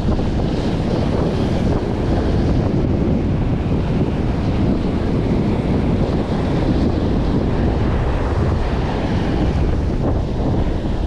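Strong wind buffeting the microphone in a steady low rumble, with surf washing on the beach behind it.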